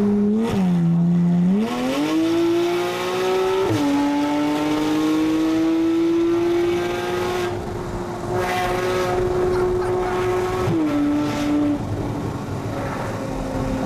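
Porsche 981 Cayman S's 3.4-litre flat-six, heard from inside the car through an Armytrix valved exhaust with headers and sport cats, valves open and raspy. It pulls hard through the gears: the revs climb, drop suddenly with an upshift a little under four seconds in, climb slowly for several seconds, then drop again with another shift near the end.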